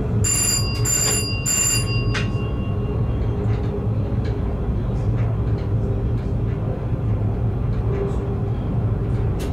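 Passenger train running along the track, heard from the cab as a steady low rumble. About a second in, three short high ringing tones sound in quick succession, followed by a single click.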